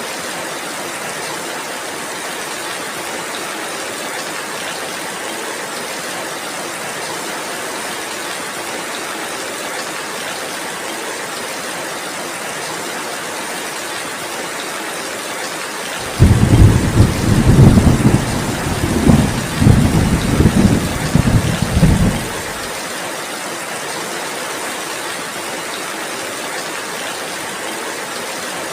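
Steady heavy rain, with one roll of thunder a little past halfway: a deep rumble that starts suddenly, swells several times over about six seconds, and stops.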